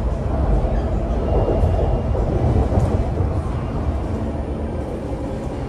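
An MTR IKK-Train (SP1900 electric multiple unit) heard from inside the passenger car as it runs between stations. The wheels and car body give a steady rumble that grows a little louder over the first few seconds and then eases slightly.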